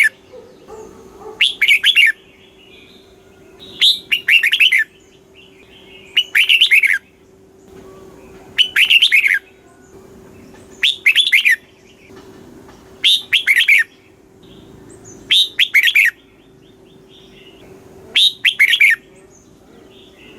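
Red-whiskered bulbul singing its short, bright, warbling phrase of several quick notes over and over, about every two and a half seconds, with brief pauses between phrases.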